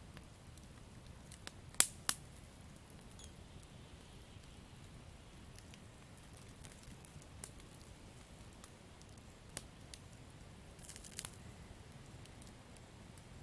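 Wood campfire crackling: scattered sharp pops over a low, steady hiss. The loudest pair of pops comes about two seconds in, and a short run of crackles comes near the end.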